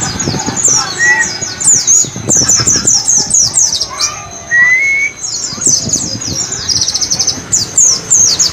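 White-eye (pleci) song: rapid, high, thin chirps, each sliding downward, packed closely together, with a fast trill a little past the middle and a couple of lower whistled glides.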